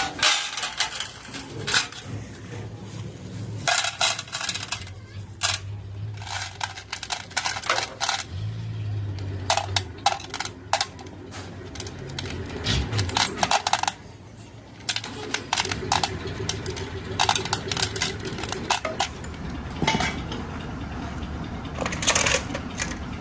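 Irregular sharp metal clinks and knocks, in quick clusters, as metal tools strike and rattle against steel. A low steady hum runs underneath part of the time.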